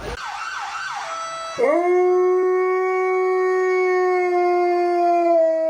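A dog howling: a few short falling whines, then about a second and a half in one long, steady howl held for several seconds, which drops slightly in pitch near the end.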